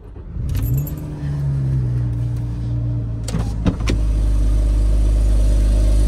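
Porsche 987.2 Cayman S's 3.4-litre flat-six starting up, its revs rising and settling into a steady idle that grows louder and deeper about two-thirds of the way in. A couple of sharp clicks just before that.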